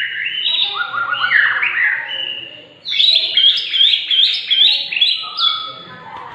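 White-rumped shama (murai batu Medan) singing a loud, varied song of whistled phrases, with a short break about three seconds in followed by a quick run of short sweeping notes.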